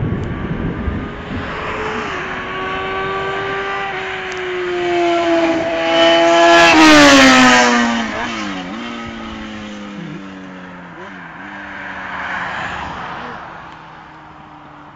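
Yamaha Thundercat's inline-four running with no exhaust fitted. It gets louder and higher in pitch up to about seven seconds in, then the pitch falls sharply as it passes and moves away. The pitch dips and recovers several times, like gear changes, as it fades.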